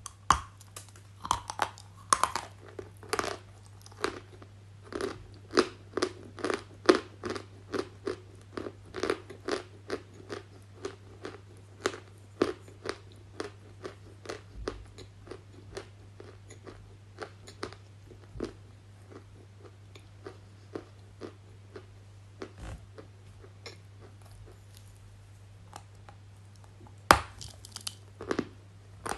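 Close-miked ASMR crunching and chewing: a rapid run of crisp crunches, about two to three a second, thinning out in the second half, then a sharp, loud bite near the end. A steady low hum runs underneath.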